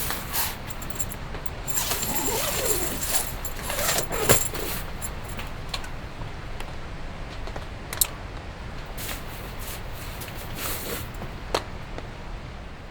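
Steady rain hiss with scattered metallic clinks and rattles of gear being handled, the sharpest about four and eight seconds in.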